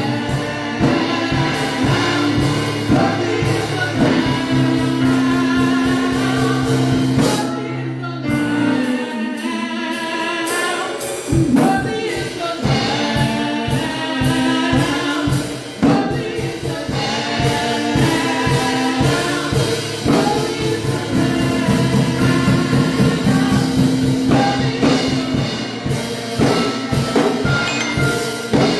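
Live gospel worship music: a worship team singing as a group over a band, with sustained low chords and a steady beat. The low notes drop away about eight seconds in and come back about three seconds later.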